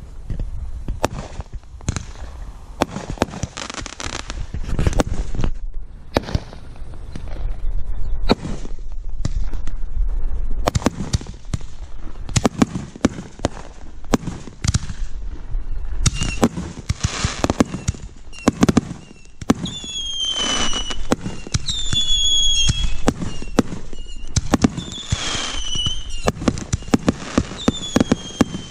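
Consumer fireworks going off in rapid volleys of sharp bangs and crackling. From about halfway through, several short whistles that fall in pitch ride over the bangs.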